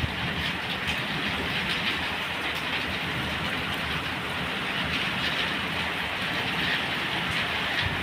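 Steady rain: a dense, even hiss with scattered fine drop ticks over a continuous low rumble.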